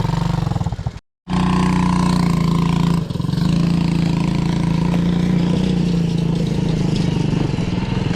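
Quad bike engine running at a fairly steady pitch, with the sound cutting out to silence for a moment about a second in.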